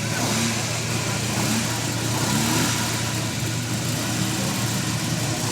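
Car engine running steadily at idle, a low even hum over a steady hiss.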